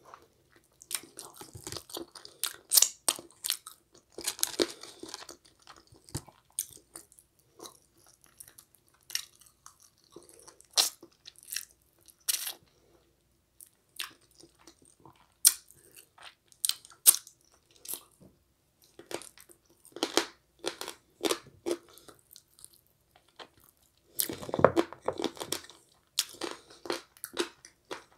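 Close-miked chewing and biting of a chicken wing: irregular wet mouth smacks and crunches, with a louder run of chewing near the end.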